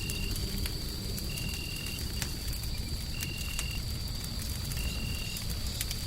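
Fireplace fire crackling with scattered sharp pops over a steady low rumble of white noise. A thin high whine runs under it, and a short high tone repeats about every second and a half.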